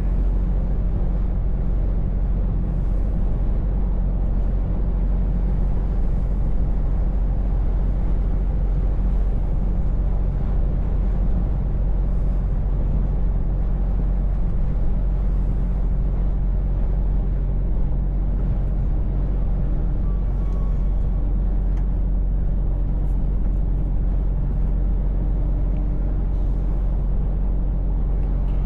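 Scania V8 truck driving at a steady pace: an even low engine drone with road noise, heard from inside the cab.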